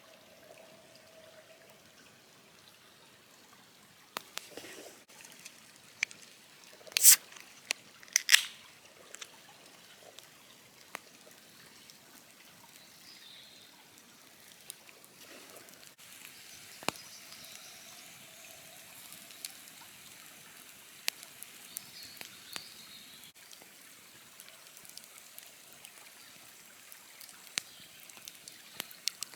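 Campfire crackling, with scattered sharp clicks and two louder pops about seven and eight seconds in.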